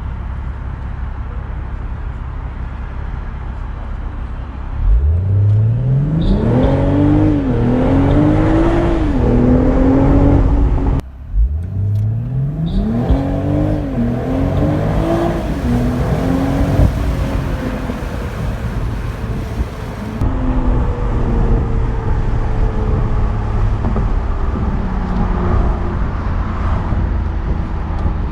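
BMW Z4 M40i's turbocharged 3.0-litre inline-six pulling hard through the gears twice, its pitch climbing and dropping back at each quick upshift. Before the first run there is a steady drone of engine and road noise. After the second run the engine settles to a steadier note that slowly falls.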